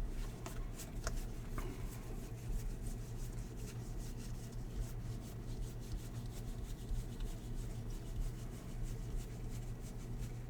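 Baseball cards being slid and flipped through the hands one after another: soft rubbing and irregular light clicks of card stock, over a steady low hum.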